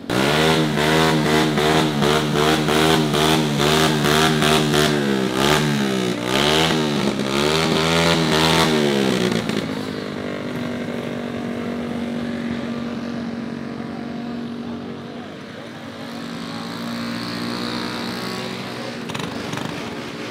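Small mini bike engine revved up and down repeatedly in quick blips for about nine seconds. Then it drops back to a quieter, steadier idle.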